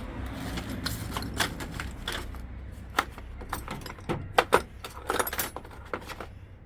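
Metal hand tools being handled and picked through: a string of sharp clinks and jangles, coming thicker in the second half.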